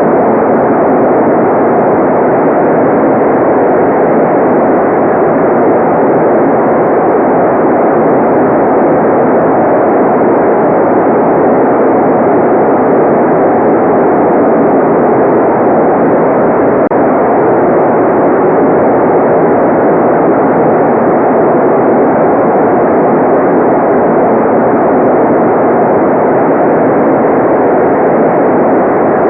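Generated white noise playing as a steady, unchanging hiss, sounding dull and muffled with no high treble.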